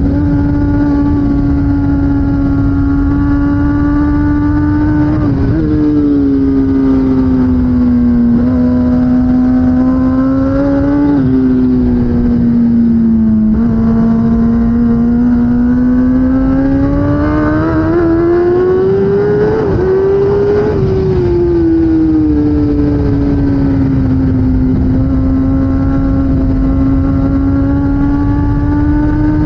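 2016 Kawasaki ZX-10R superbike's inline-four engine running hard under race conditions, its pitch stepping up and down with several gear changes, then climbing in one long rise in revs before easing off. A steady rushing noise runs underneath.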